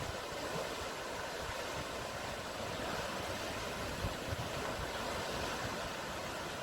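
Sea surf washing steadily, a continuous rushing hiss, with a brief low thump of wind on the microphone about four seconds in.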